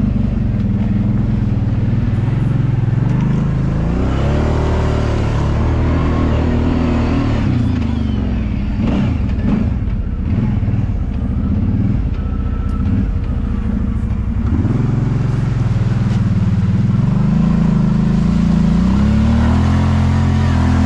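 Kawasaki Brute Force 750 ATV's V-twin engine running on the trail, its pitch rising and falling as the throttle is worked, with the revs climbing about four seconds in and again near the end.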